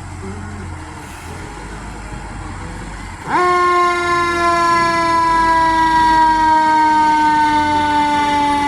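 Fire engine pulling away, its engine rumbling low at first; about three seconds in, its siren starts loudly with a quick rise in pitch, then holds in a long, slowly falling wail.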